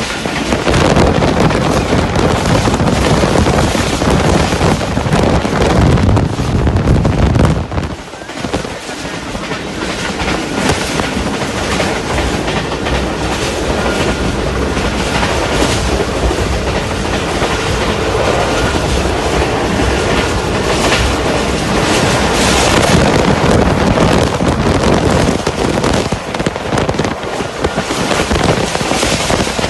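Express passenger train passing at high speed: a loud, steady rush of wheels running and clattering over the rails, which dips briefly about eight seconds in.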